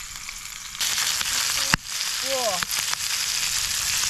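Whole squid frying in very hot oil: a steady sizzle that gets louder about a second in, with spitting pops of oil and one sharp, loud pop a little under two seconds in.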